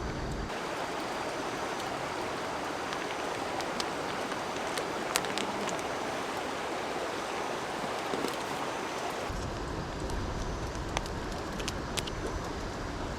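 Steady rushing noise of running water, with a handful of sharp clicks or taps scattered through it.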